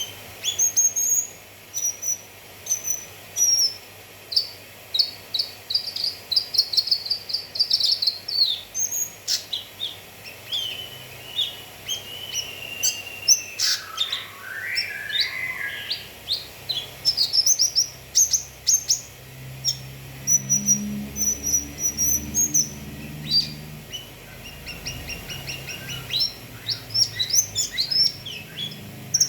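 Cucak kinoi song: a run of sharp high chirps and fast trills, with a longer call that sweeps down in pitch about halfway through.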